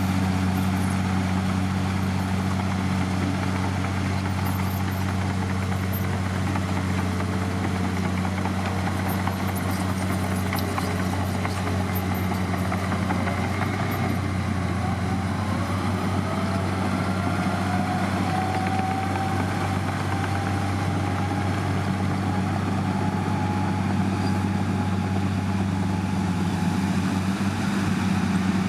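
Heavy diesel engine of earthmoving machinery running at a steady pitch, with a fainter whine that rises in pitch about halfway through.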